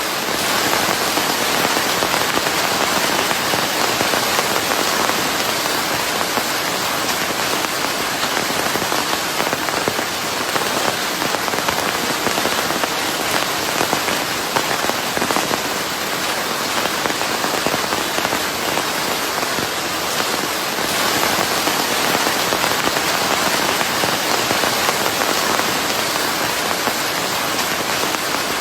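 Steady rain falling on a surface, a dense, even patter blended with white noise.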